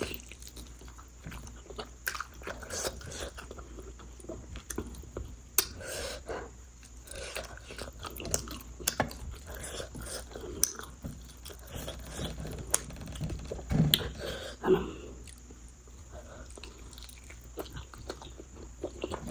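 A person chewing and biting food close to the microphone, with irregular sharp clicks and short crunches.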